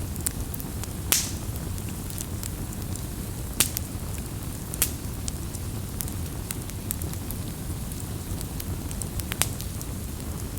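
Wood campfire burning and crackling: a steady low rumble of flame with frequent small crackles and four louder sharp pops spread through it.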